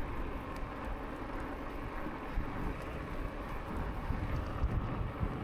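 Wind buffeting the microphone with low tyre rumble from an e-bike riding along a path, a steady, rough noise.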